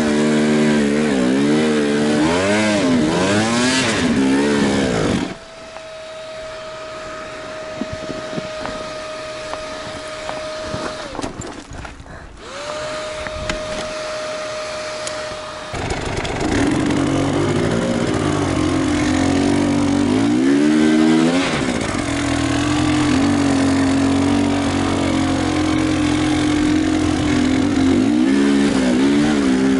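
Off-road enduro motorcycle engine revving up and down as the rider works the throttle. About five seconds in it drops to a quieter stretch with a steady hum for roughly ten seconds, then the engine revs hard again.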